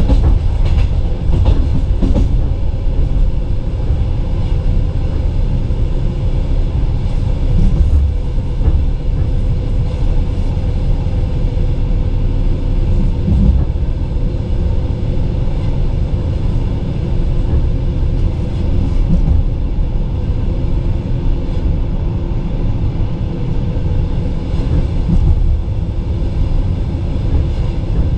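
Passenger train coach rolling at speed, heard from inside at the window: a steady low rumble of wheels on rail, with a few sharp clicks in the first couple of seconds.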